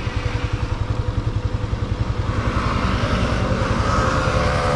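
Yamaha FZ S V3's 150cc single-cylinder engine running steadily while the motorcycle is ridden along the road.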